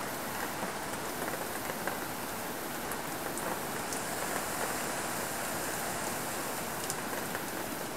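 Steady rain in a hurricane, an even hiss with a few faint ticks of drops, the wind strong.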